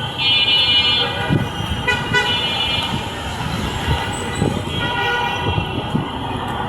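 Vehicle horns honking in city street traffic: a loud toot just after the start, a short one about two seconds in and a longer one near the end, over a steady din of engines and tyres.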